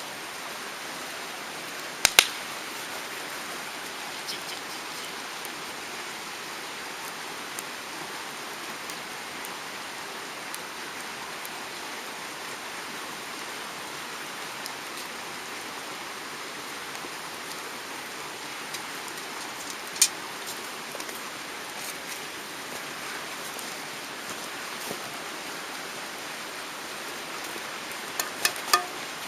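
Steady rush of a mountain stream flowing over rocks, with a few sharp clicks or knocks about two seconds in, near the middle, and a quick cluster of them near the end.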